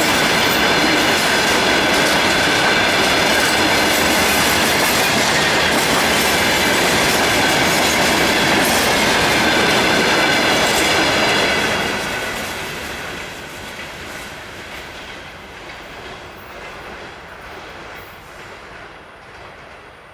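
Freight train wagons rolling past at speed, clattering over the rail joints with a steady high squeal of the wheels. About twelve seconds in the noise drops and fades away as the end of the train passes.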